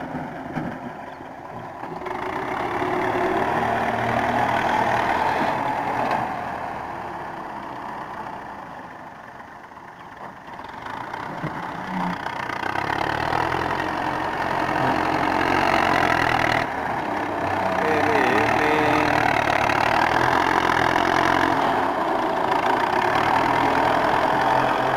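Diesel engine of a Russian-built tractor running, swelling and fading as it moves, then louder and steady through the second half.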